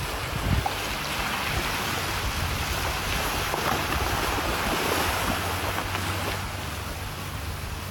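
Rushing, splashing water like surf, with wind buffeting the microphone; a steady low hum runs underneath.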